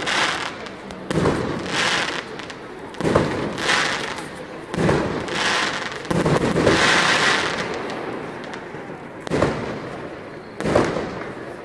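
Aerial fireworks shells bursting overhead: about seven loud bangs at uneven intervals, each followed by a high, crackling hiss as the burst fizzles out.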